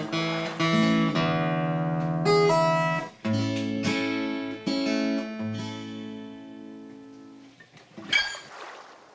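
Acoustic guitar music: a run of plucked notes that dies away about seven and a half seconds in, followed by a short rush of noise near the end.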